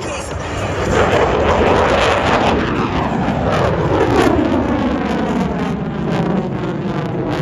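Jet noise of an F-22 Raptor's twin F119 turbofan engines as the fighter flies past. It is a loud rushing roar that swells about a second in, and its pitch sweeps steadily downward as the jet goes by.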